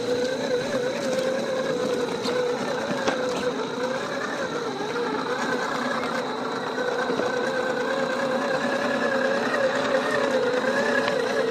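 Electric drive motor and gearbox of a 1:8 scale RC Defender 110 pickup truck whining steadily as it drives, the pitch wavering up and down slightly with throttle and load.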